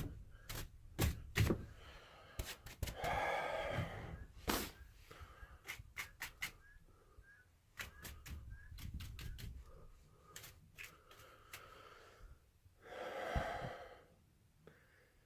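Irregular light clicks and knocks from a small brush knocking snow buildup off battery terminals, with two heavy breaths, one about three seconds in and one near the end.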